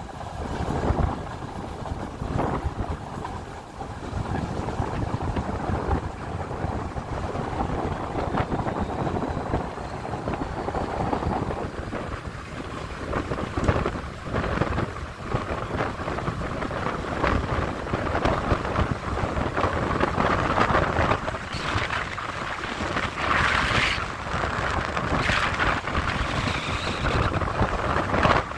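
Passenger train running at speed, heard from an open window: wind buffeting the microphone over the rumble of the train, with irregular clatter from the wheels on the rails.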